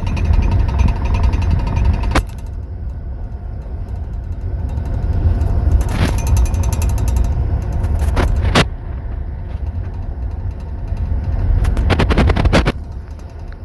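Passenger train running, heard from inside a sleeping compartment: a steady low rumble with the clack of wheels over rail joints. There is a single knock about two seconds in, another around six seconds, a quick pair near eight seconds and a rapid run of clacks near the end.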